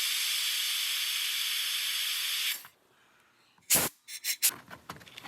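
Steady hiss of pressurised air escaping, which cuts off suddenly about two and a half seconds in. A few sharp clicks and knocks follow near the end.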